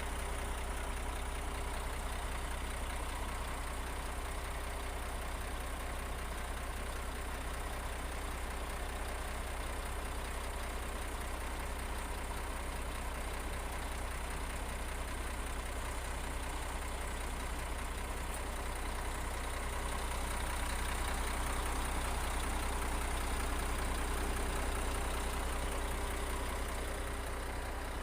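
Diesel engine of heavy earthmoving machinery running steadily, growing a little louder about twenty seconds in and easing off again near the end.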